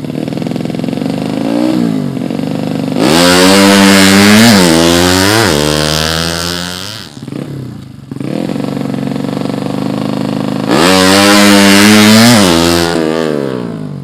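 Tuned 115cc standard-bore motorcycle engine being revved hard: several quick blips of the throttle and two long runs up to high revs, falling back to low revs about halfway through and again near the end.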